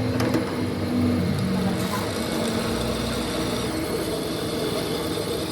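A machine running steadily: a continuous mechanical drone with a low hum that shifts in pitch about a second in.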